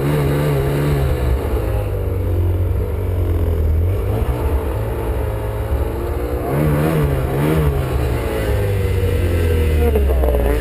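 Snowmobile engine running hard with its revs rising and falling unevenly, surging about a second in and again around seven seconds in.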